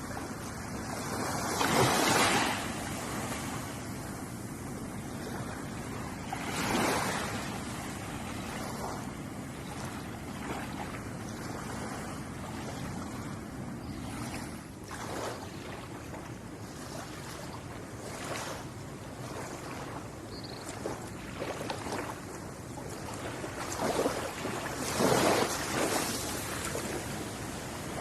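Ocean waves breaking and washing onto a shore over a steady hiss of surf. The biggest breaks come about two seconds in, around seven seconds, and near the end, with smaller ones between.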